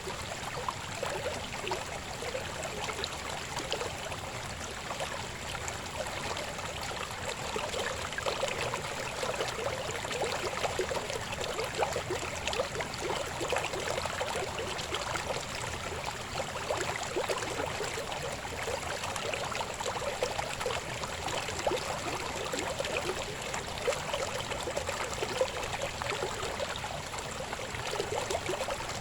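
Shallow river babbling over stones: a steady flowing rush full of small bubbling splashes.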